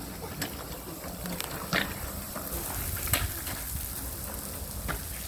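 Wind rushing over the microphone while riding a bicycle, with a low rumble and a few sharp clicks or knocks, the loudest about three seconds in.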